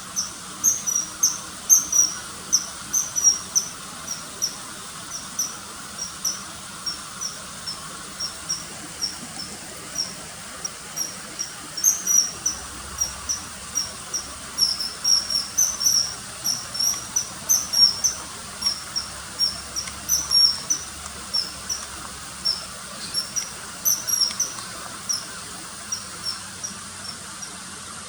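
Common kingfisher calling: a long run of short, sharp, high-pitched notes, a few per second, coming in irregular bursts.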